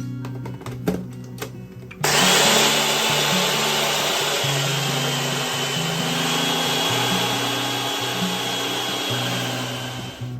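A small electric motor appliance switches on about two seconds in and runs steadily with a high whine for about eight seconds, then stops. Soft background music plays underneath.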